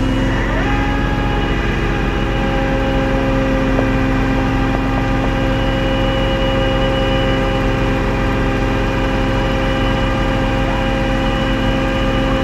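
Tow truck engine running steadily at idle, with a steady whine through it; a further whine tone joins just under a second in.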